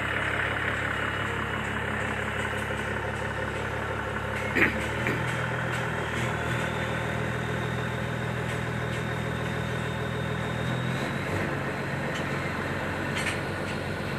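Concrete pump truck's diesel engine running steadily, with a sharp knock about four and a half seconds in. The engine's note shifts at the knock and again near eleven seconds.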